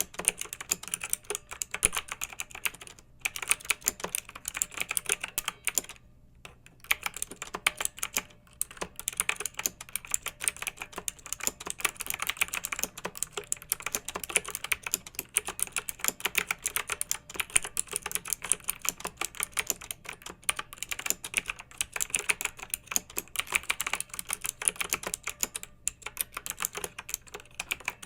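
Clicky mechanical keyboard being typed on in fast, continuous runs of keystrokes, with brief pauses about 3 seconds in and again around 6 to 7 seconds in.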